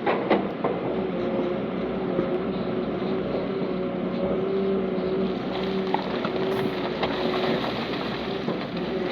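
Heavy diesel engine of earthmoving machinery running steadily under load, with a few sharp knocks in the first second and another about seven seconds in.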